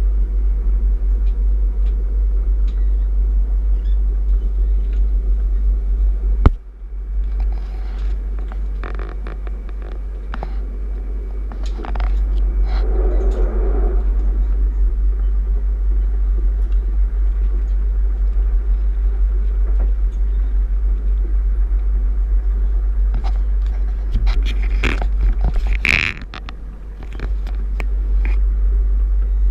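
Bombardier electric multiple unit running on the line, heard from inside the carriage as a steady low rumble with scattered clicks and knocks from the wheels and track. A loud knock about six seconds in is followed by a brief drop in level, and there is another short dip with a cluster of clicks near the end.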